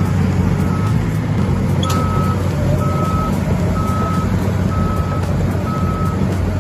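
Reversing alarm on heavy equipment, beeping evenly about once a second over a steadily running diesel engine.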